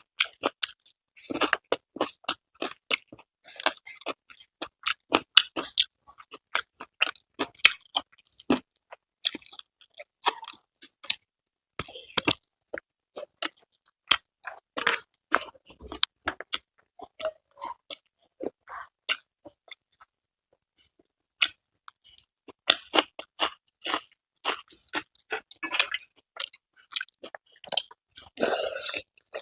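Close-miked eating: a person chewing and crunching food in a quick, irregular run of sharp crackles, with a pause of about two seconds roughly two-thirds of the way through.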